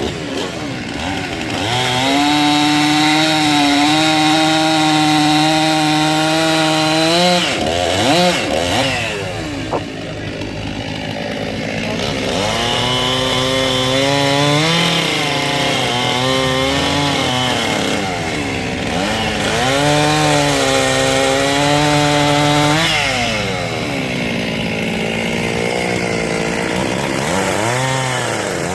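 Circular sawmill blade, powered by a 1926 Keck-Gonnerman steam traction engine, cutting through logs. Its whine drops in pitch and holds lower while it is in the cut, then rises back up between cuts, about three times.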